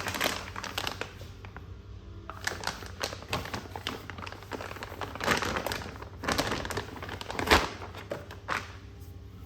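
Crinkling and rustling of something being handled, with irregular clicks and a sharper knock about seven and a half seconds in, over a low steady hum.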